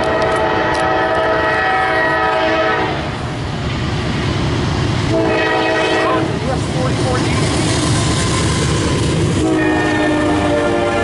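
Norfolk Southern freight locomotive air horn sounding a long blast that ends about three seconds in, a short blast a couple of seconds later, then another long blast near the end. Between the blasts the rumble of the approaching intermodal train grows.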